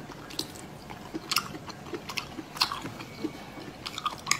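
Close-up eating sounds: wet biting and chewing of whole braised octopus, its heads bitten open, with about half a dozen sharp, irregular mouth clicks.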